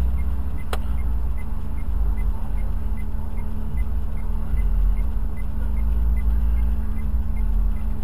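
Car engine idling, heard from inside the stationary car as a steady low rumble with a faint hum. A faint regular ticking runs about twice a second, and there is a single sharp click about a second in.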